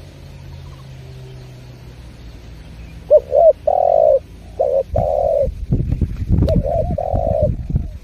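Spotted dove cooing. After about three seconds of faint low hum come two phrases, each of a few short notes running into a longer held coo. Under the second phrase there is a loud low rumbling noise.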